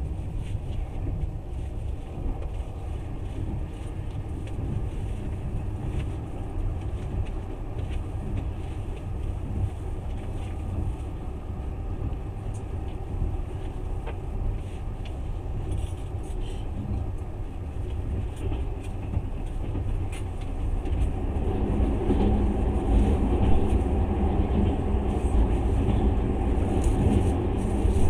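Passenger train running along the track, heard from inside the carriage: a steady low rumble of wheels on rails. The rumble grows louder and fuller over the last several seconds as the train comes out over a river.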